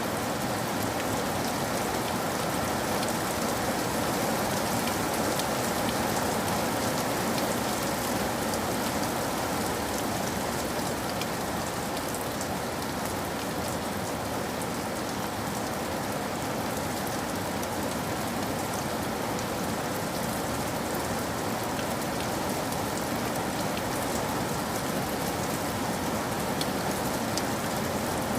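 Steady rain falling: a dense, even hiss of rain with faint scattered drop ticks, holding a constant level throughout.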